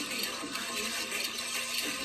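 Soundtrack of a film preview played from VHS tape, without speech: a dense, steady mix of sound effects and faint background music.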